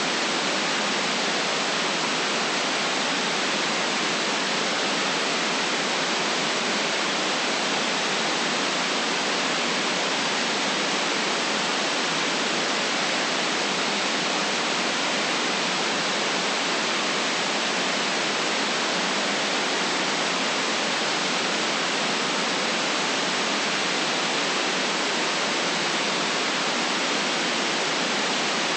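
Steady, unchanging white noise, cut off below the deepest bass and above the highest treble, with no separate events in it.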